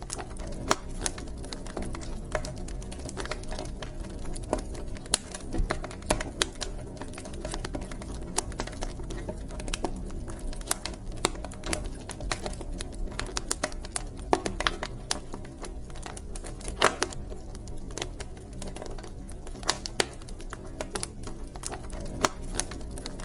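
Wood fire burning in a fireplace: irregular sharp crackles and pops, a few louder snaps, over a steady low rumble of the flames.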